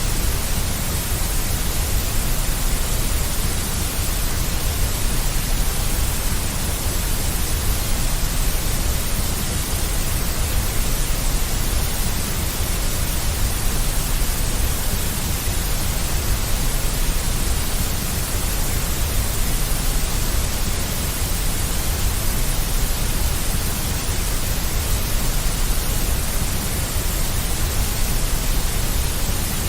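Steady, unbroken synthetic noise of the deep white-noise kind played to settle babies, with a strong low rumble under an even hiss.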